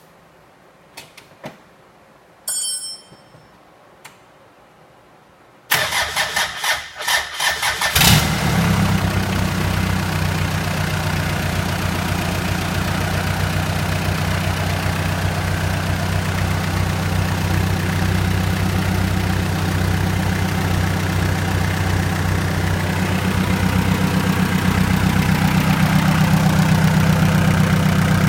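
Hyundai D4BB four-cylinder diesel engine cranked over by the starter for about two seconds, then catching and idling steadily, getting slightly louder near the end. A few light clicks and a short high tone come before the start.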